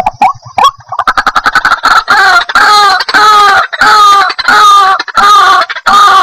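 White-breasted waterhen calling: a fast run of short clicking notes that builds into loud, repeated croaking "kru-ak" calls, about two a second.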